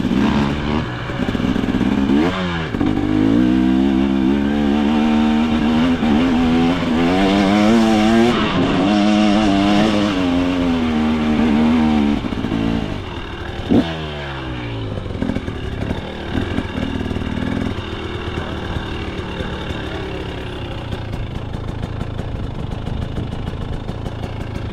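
2025 KTM 300 XC two-stroke dirt bike engine revving up and down while riding, its pitch rising and falling over and over. It gives one sharp rev about 14 seconds in, then settles to a lower, steadier running for the rest of the time.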